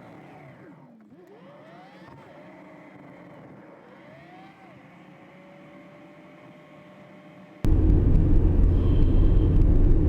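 Car engine heard faintly, its pitch rising and falling several times as it accelerates through the gears. About seven and a half seconds in, it gives way abruptly to a loud, steady low rumble of driving road noise.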